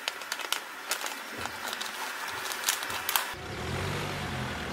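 Railway coach rolling slowly past, its wheels and bogie giving sharp, irregular clicks and clanks. About three seconds in, this gives way to a steady low rumble of the Land Rover Discovery Sport towing the train along the rails.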